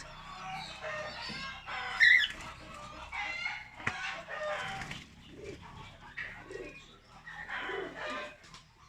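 Caged birds calling and chirping over one another, with chicken-like clucking, fading toward the end.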